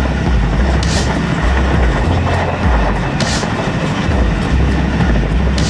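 Hazara Express passenger train running on the rails, a steady loud rumble with three sharp clacks of the wheels over rail joints, a little over two seconds apart.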